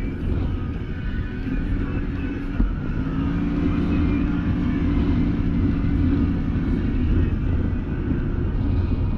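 Can-Am Maverick Sport XMR side-by-side's engine running steadily under way on a trail, with one sharp knock about two and a half seconds in.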